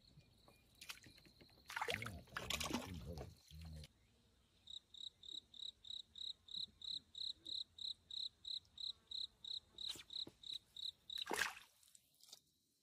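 A cricket chirping steadily at a high pitch, about four chirps a second. Before the chirping starts, a couple of seconds of rustling and water sloshing, and a sharp click comes near the end.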